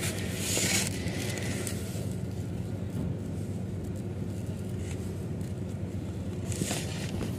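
Motor vehicle engines running with a steady low rumble, with a brief rush of noise about half a second in.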